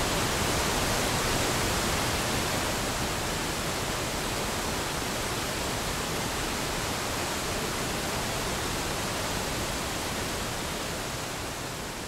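Steady rush of falling water, with no distinct splashes, slowly fading out near the end.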